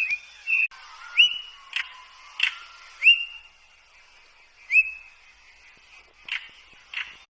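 Birds calling: about four short whistled notes, each rising quickly and then holding at one pitch, mixed with sharp brief chips.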